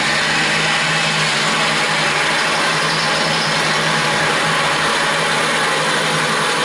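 Power drill running steadily at speed: a constant motor hum under loud, even whirring.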